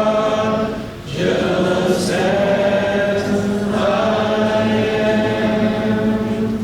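Church congregation singing a hymn unaccompanied, in many voices, with a short break for breath about a second in and then long held notes. The singing fades out at the very end.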